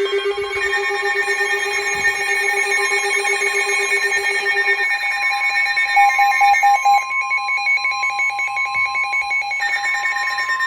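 Several weather alert radios sounding their alarms at once: overlapping electronic beeps at different pitches. One low beeping stops about halfway through, and a steady tone near 1 kHz carries on, typical of the NOAA Weather Radio alert tone that comes before a new warning.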